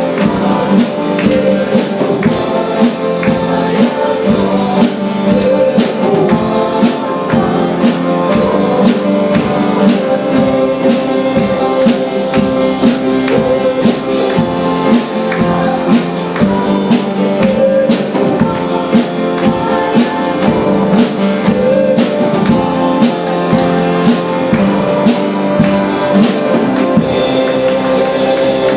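Worship band music: drum kit, guitar and tambourine playing at a steady beat, with some singing.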